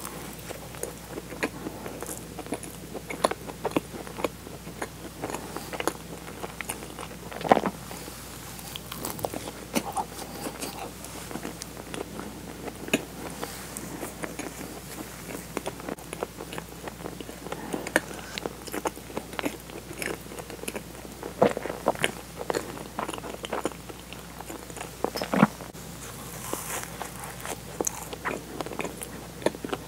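A person chewing and biting soft, sugar-dusted cream-filled donuts close to a clip-on microphone, with small wet mouth clicks at irregular intervals.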